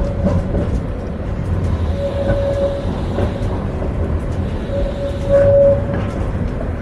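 Vario LF2R.E low-floor tram running along the track, heard from on board: a steady low rumble with scattered clicks from the wheels and rails. A high steady tone comes in twice for about a second, at about two seconds in and again near five seconds.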